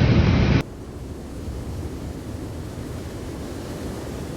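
A steady rushing noise with no tones or voices. It drops abruptly to a much quieter level about half a second in, then stays even.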